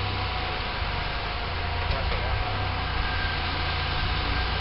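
Jeep Cherokee XJ engine running steadily at low revs as the Jeep crawls over boulders.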